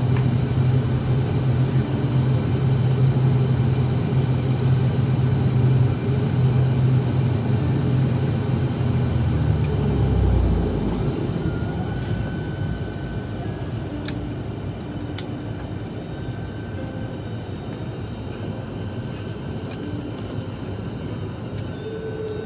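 Small propeller aircraft's engines and propellers droning steadily as it lands, then fading out about ten seconds in, leaving a quieter rumble.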